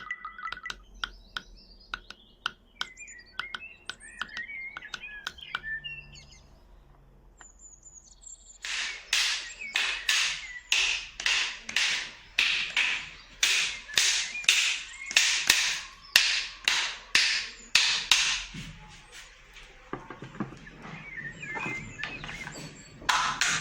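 Bird-like chirps among scattered clicks. About eight seconds in, a steady rhythm of loud rasping strokes starts, about two a second, like a shaker or scraped percussion.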